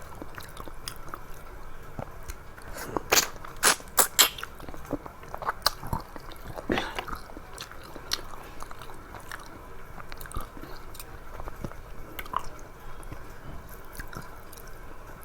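A person chewing food close to the microphone, with mouth clicks and a run of loud crunchy bites about three to four seconds in and another near the middle.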